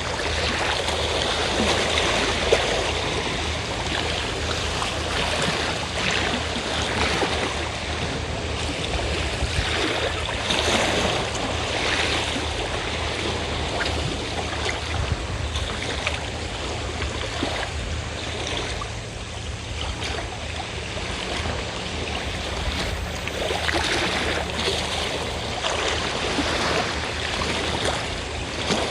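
Sea waves washing and breaking on the shore, rising and falling in repeated swells, with the steady low drone of a fishing boat's engine beneath.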